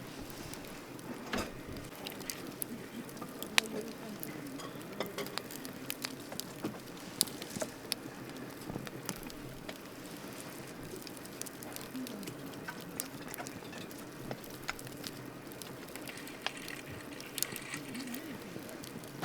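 Wood fire crackling: a steady low hiss with frequent irregular small pops and snaps, and two sharper, louder pops about three and a half and seven seconds in.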